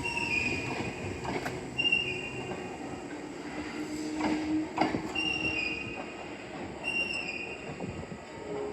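Hankyu 8000/7000 series train running slowly, its wheels giving short high squeals that step down in pitch, repeating about every two seconds. A few sharp knocks of wheels over rail joints come in between.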